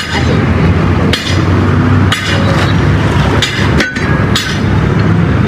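Several hammer blows ringing on metal, roughly a second apart, over a steady low rumble, typical of work on a truck wheel rim and tire.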